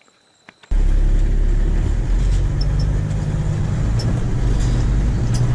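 A motor vehicle driving: a steady engine drone and low rumble start suddenly about a second in, with a few faint clicks or rattles over it.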